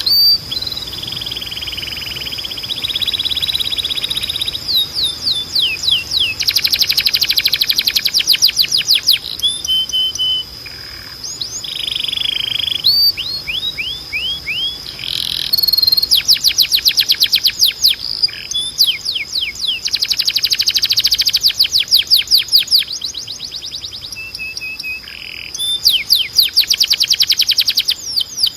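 Spanish Timbrado canary singing a long song of rapid trills and runs of quick falling notes, phrase after phrase with brief breaks. A steady high tone runs underneath.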